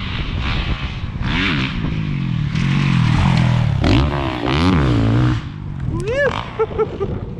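A 450cc four-stroke motocross bike revving hard, its engine pitch climbing and falling several times as it accelerates up to and off a jump, loudest about three to five seconds in, then dropping away.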